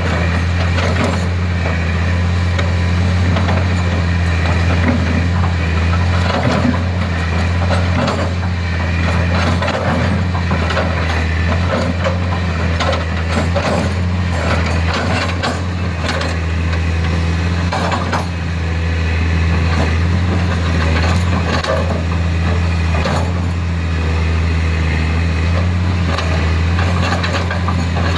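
Excavator's diesel engine running steadily under load, with scattered clanks and rattles of its tracks, bucket and stones.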